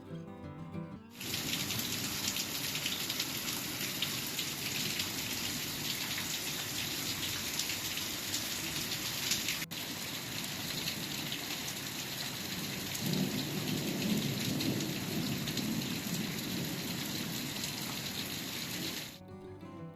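Heavy rain falling, a steady dense hiss that starts abruptly about a second in and stops about a second before the end, with a brief cut near the middle. A low rumble swells for a couple of seconds in the second half.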